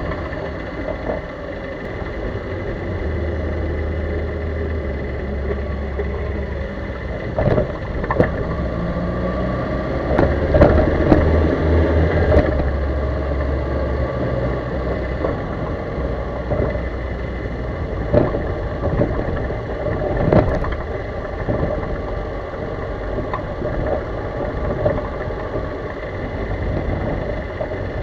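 Chevrolet Corsa on the move, with a steady engine and road hum broken several times by short, sharp knocks from the suspension. This is the suspension noise known as 'morceguinho'.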